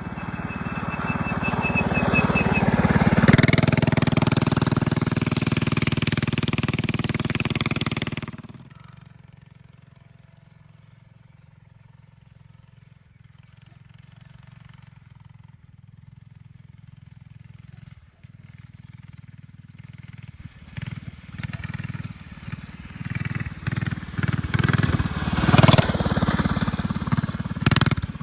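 Minibike's Predator 212 single-cylinder engine running under throttle, building for several seconds then dropping away sharply. It returns near the end with uneven surges of throttle.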